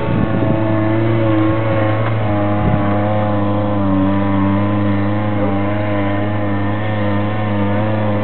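Four-wheel-drive truck's engine running steadily at low speed as the truck crawls up a steep dirt hill climb, its pitch wavering slightly.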